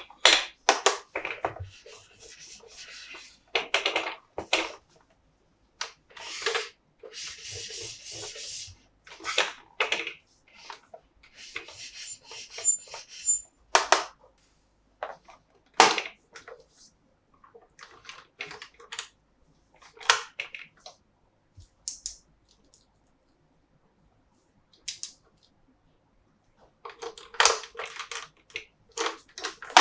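Hands handling a plastic toy playset and its parts: scattered sharp clicks and knocks of hard plastic, with a few stretches of rubbing or rustling and short quiet gaps between.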